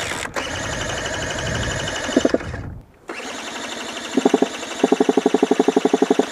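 Electric starter of a 2017 KTM two-stroke dirt bike cranking the engine in two long bursts: a whirring whine that pulses quickly and evenly toward the end of each, and the engine never fires. The riders take this for a flooded engine.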